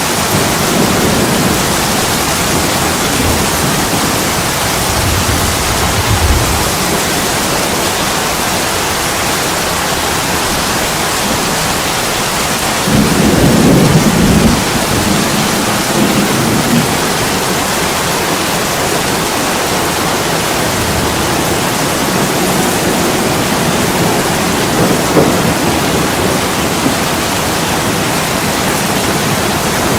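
Heavy rain pouring steadily on an attic window, with low rolling rumbles of thunder swelling up several times; the loudest roll comes about halfway through.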